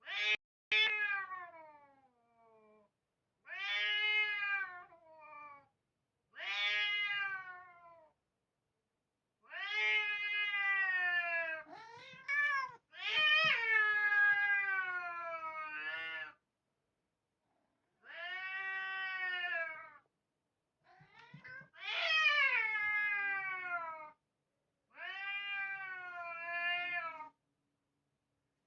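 Domestic cat meowing repeatedly: about eight long, drawn-out meows of one to three seconds each, the pitch falling at the end of each call, with short pauses between them.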